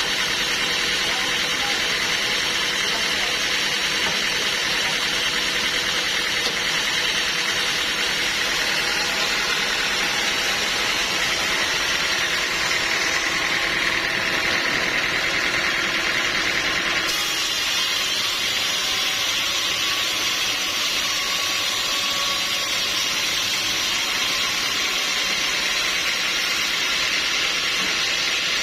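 Sawmill machinery running steadily with a loud, even noise. The sound changes abruptly about seventeen seconds in.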